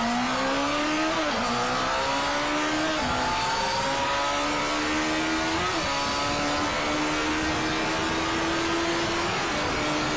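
Honda CBR1100XX Super Blackbird's inline-four engine under full-throttle acceleration at very high speed. It climbs in pitch through the gears, with upshifts about a second in, near three seconds and near six seconds, each gear pulling longer than the last. After a final shift near the end it holds a steady note, all under heavy wind rush on the microphone.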